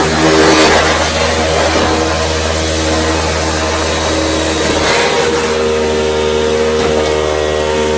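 ASDA Goblin GVU401R18 budget upright vacuum cleaner running, a steady motor hum and whine with suction noise; the pitch shifts slightly about five seconds in.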